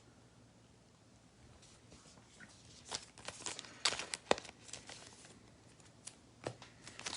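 Trading-card pack wrapper crinkling and tearing as it is opened by hand, in a burst of sharp crackles starting about three seconds in, with a few single clicks near the end.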